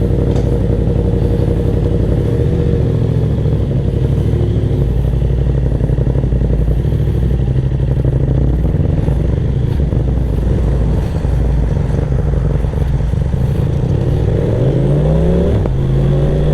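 BMW F900R motorcycle's parallel-twin engine running steadily under way, with the revs climbing near the end.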